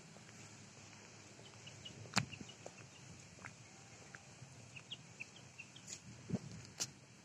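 Quiet outdoor background with scattered short bird chirps and a few sharp clicks, the loudest about two seconds in.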